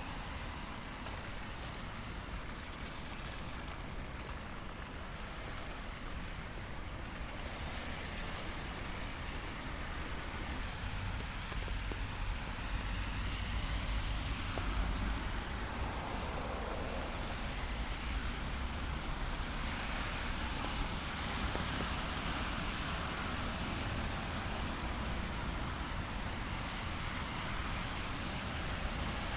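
City street in the rain: a steady hiss of rain with cars driving past on the wet road, their tyre noise swelling and fading several times over a low traffic rumble.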